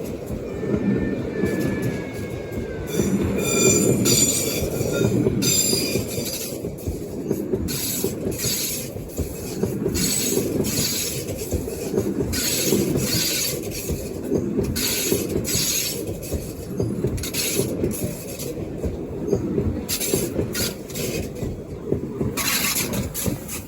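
Rhaetian Railway train running on metre-gauge track with a steady rumble; in the first few seconds its wheels squeal on the rails, and hissing swells come and go over the rumble.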